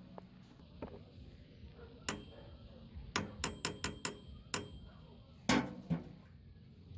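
Metal parts of a microwave oven being handled while it is dismantled for scrap: sharp clinks and knocks, some of them ringing briefly. A quick run of five or six clinks comes about three seconds in, and the loudest knock comes a couple of seconds later.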